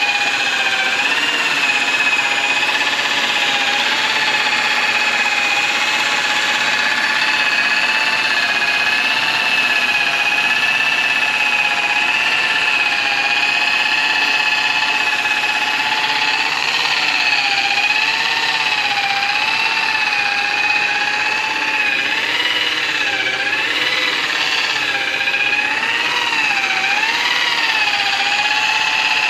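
Electric rotary polisher motor running with a steady high whine. Its pitch wavers in repeated dips and recoveries through the second half.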